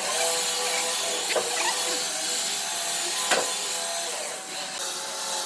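A power tool starts suddenly and runs steadily with a high hiss, with two sharp knocks along the way.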